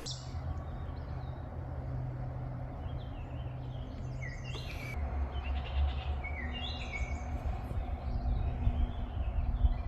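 Birds chirping in short, partly falling calls over a steady low rumble with a faint hum.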